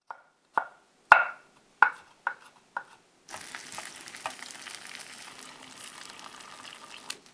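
Six sharp knocks, each with a brief ring, spaced about half a second apart. About three seconds in they give way to a steady sizzle of food frying in oil.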